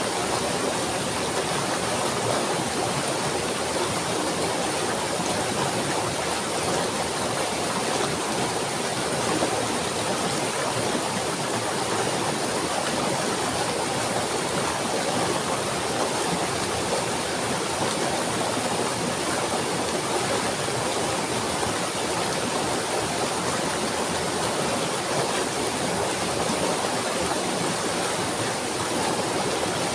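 Steady, even rush of flowing water, like a stream or small waterfall.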